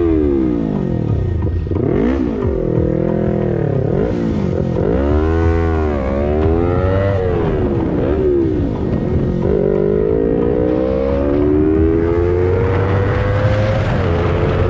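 A vehicle engine revving up and down in quick rises and falls, then climbing steadily in pitch as it accelerates, with a brief drop near the end like a gear change.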